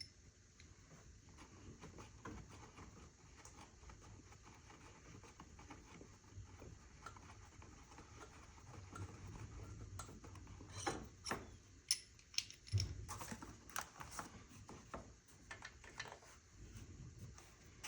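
Quiet handling noise with scattered light clicks and taps, several close together in the second half: tools and engine parts being handled during disassembly.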